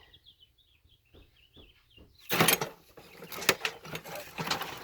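Faint short high chirps, typical of small birds, repeat through the first two seconds. Then, from about two seconds in, comes an irregular run of knocks and rustling, loudest just after that start.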